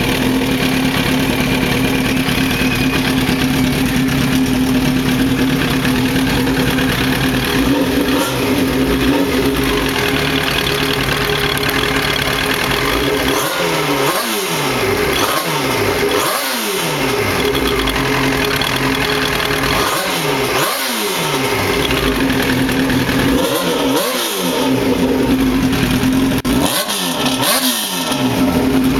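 Yamaha R1 sportbike's inline-four engine idling steadily, then revved in a series of quick throttle blips in the second half, each rising and falling in pitch.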